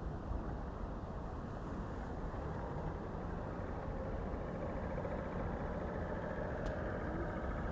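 A vehicle engine running steadily, a continuous low-heavy noise with no distinct events.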